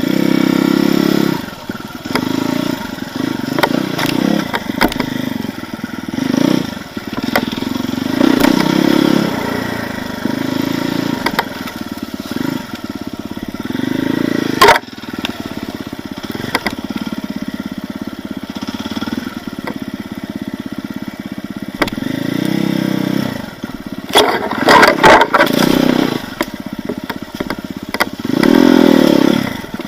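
Enduro motorcycle engine revving in repeated short bursts of throttle, rising and dropping every few seconds as the bike is ridden off-road. Sharp knocks and clatter cut in about halfway through and again in a cluster a little before the end.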